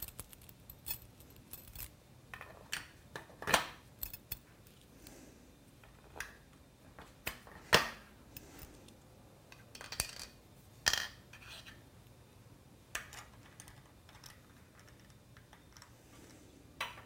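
Scattered metallic clinks and knocks of parts and tools being handled on a Legacy ornamental mill during setup. The sharpest come about a fifth, nearly half and two-thirds of the way through.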